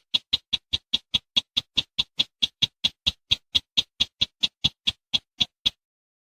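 Recorded call of a rail or crake: a long series of short, sharp notes repeated about four to five times a second, stopping shortly before the end.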